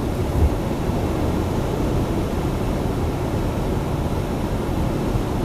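Road and engine noise inside a car cruising at highway speed: a steady low rumble, with a brief thump about half a second in.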